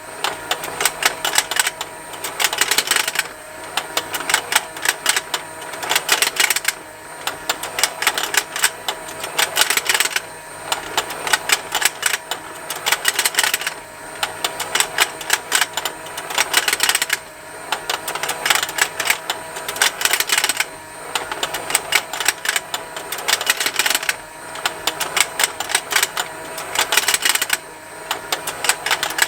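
Rotating plastic fishing game toy running: its small motor hums under continuous rapid plastic ticking and snapping from the turning fish, which grows louder about every three and a half seconds as the toy goes round.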